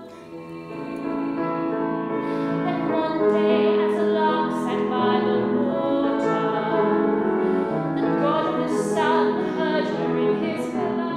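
A song from a stage musical: a singer holding long notes with vibrato over instrumental accompaniment.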